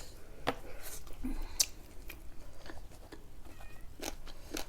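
Close-mic mouth sounds of someone biting into and chewing fried sefali, the meat-filled Tibetan fried bread: scattered wet clicks and smacks with soft crunching.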